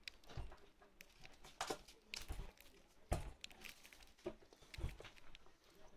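Budgerigar pecking and cracking seeds from a millet spray held in the hand: irregular small clicks and taps, with a few soft low thumps.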